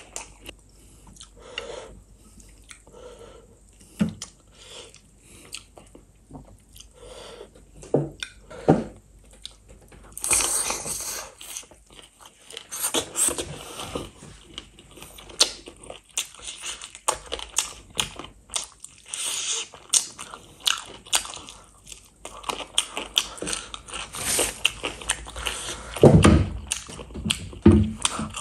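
Close-miked eating of spicy chicken feet and rice by hand: a person chewing and biting, with many short wet clicks and crunches. Sparse at first, much busier from about a third of the way in, with a heavier thud near the end.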